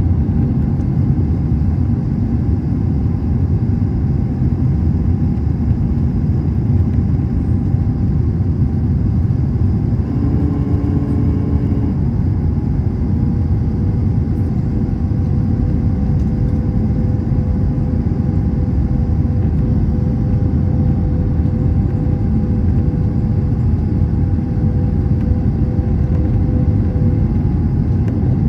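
Airliner cabin noise aboard an Airbus A321: a steady low rumble from the engines and airflow, with a faint constant whine over it.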